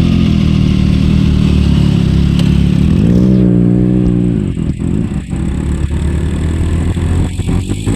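Motorcycle exhaust idling, then one rev about three seconds in that rises and falls, followed by a string of sharp pops and crackles as the revs drop.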